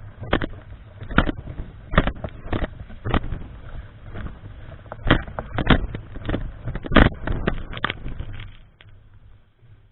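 Typhoon-strength wind buffeting the microphone: a rushing roar broken by irregular hard gusty thumps, dying away near the end.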